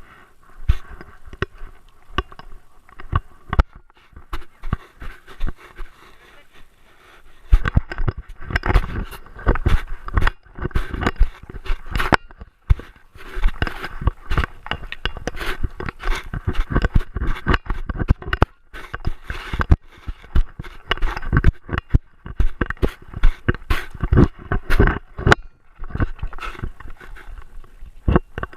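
Handling noise from a camera strapped to a Great Dane: irregular knocks, clicks and scraping as the dog moves. It is sparse at first, then much busier from about seven seconds in.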